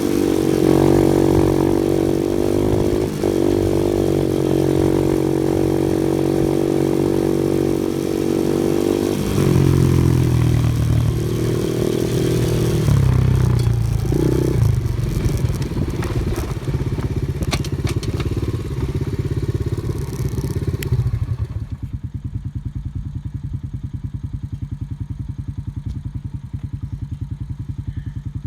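An off-road vehicle's engine running steadily, then changing pitch as it works over the terrain, with some rattling. About three-quarters of the way through it drops suddenly to a quieter, even idle.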